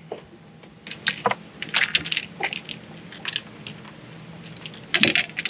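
Scattered irregular clicks, knocks and rattles of gear being handled aboard a fishing boat, loudest near the end, over a faint steady hum.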